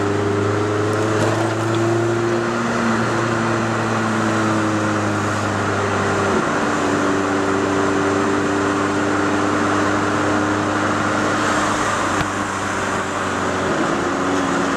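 Opel Kadett GSI's 2.0-litre eight-valve four-cylinder engine with a tuned exhaust, droning steadily while driving, heard inside the car over road and tyre noise. The engine note dips briefly about six seconds in and again near the end.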